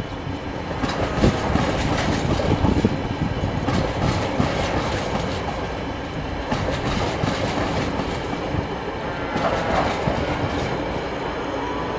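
Empty container flat wagons of a freight train rolling past, their wheels clicking and clattering irregularly over the rail joints, with a faint high wheel squeal near the end.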